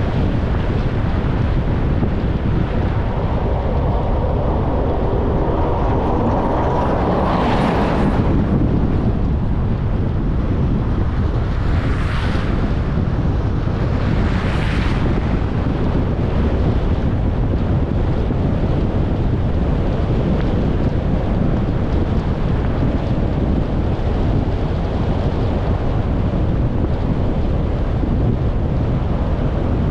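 Steady rumble of a car driving, tyre and road noise mixed with wind buffeting on the microphone. A whoosh swells and fades about eight seconds in, and two shorter whooshes follow around twelve and fifteen seconds in.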